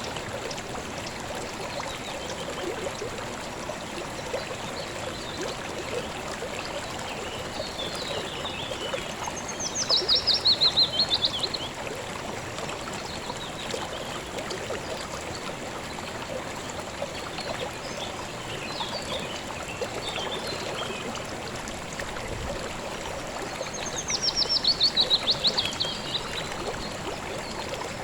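Shallow river or stream flowing steadily. A songbird sings a fast trill of rapid notes falling in pitch twice, about ten seconds in and near the end, with fainter chirps between.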